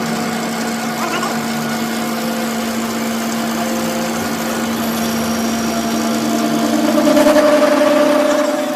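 A machine motor running steadily with a continuous hum; it grows louder and a second, higher hum joins about seven seconds in.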